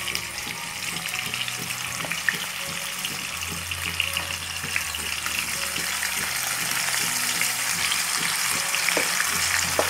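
Yogurt-marinated chicken sizzling as it goes into hot oil and ghee in a frying pan: a steady crackling hiss with scattered small pops while more chicken is spooned in.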